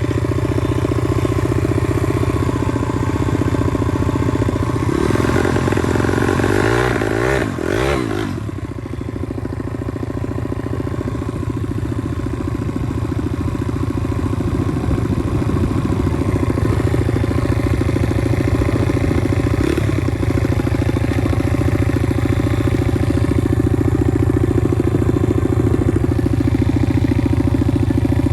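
Pit bike's single-cylinder engine running steadily as it is ridden. About eight seconds in the revs dip briefly, then build back up and hold.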